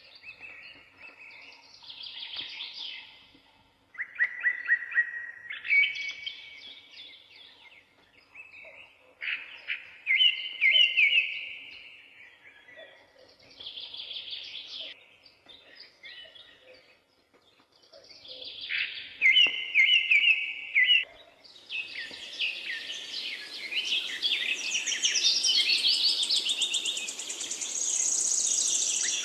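Birds singing in a forest: short song phrases, one after another with brief pauses between. About three quarters of the way through, the song turns denser and higher as several birds overlap.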